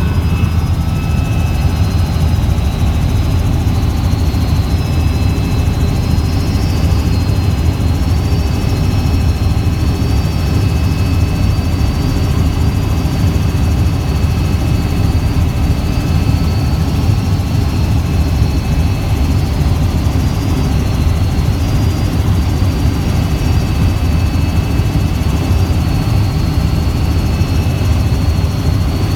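Helicopter in flight: a steady, loud drone of rotor and turbine with a thin high whine above it.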